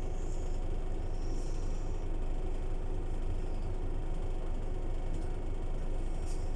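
Scania city bus running steadily, a constant low engine drone and road rumble with light rattling.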